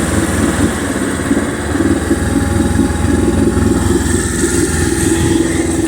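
Boat engine running steadily in gear on a test run, at an even speed.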